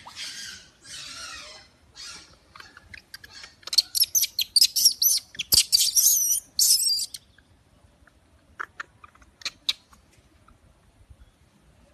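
Baby monkey screaming: a rapid run of loud, high-pitched, wavering squeals from about four to seven seconds in, after a few breathy hisses, with a couple of short clicks later.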